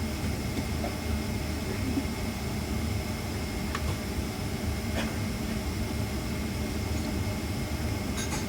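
Steady low hum of a Boeing 767's cabin, from its running engines and air conditioning, with a few faint clicks.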